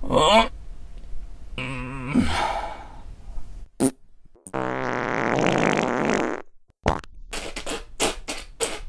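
A string of fart sound effects one after another: a short burst, a wavering pitched fart, a brief sharp crack, a long buzzy fart of nearly two seconds, then a rapid run of short sputtering pops near the end.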